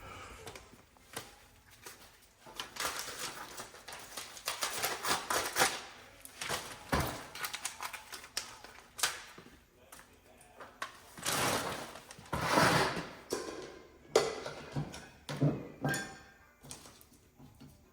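Irregular clattering, knocks and scraping of things being handled, in uneven bursts. No steady machine or power tool runs.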